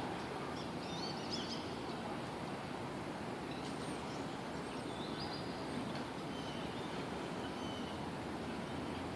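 Steady outdoor background noise with small birds chirping several times, in two short spells about a second in and again around four to six seconds in.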